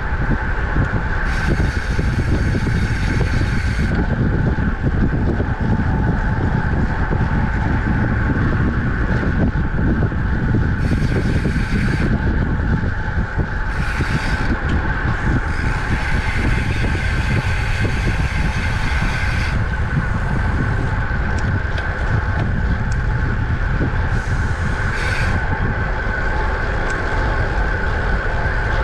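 Wind rushing over the microphone of a camera on a road bike at speed, with steady tyre and road noise beneath; stretches of brighter hiss come and go several times.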